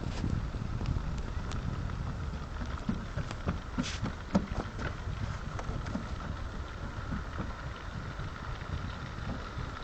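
Wind rumbling on the microphone over a steady wash of water, with scattered short splashes and flaps from water birds, the loudest about four seconds in.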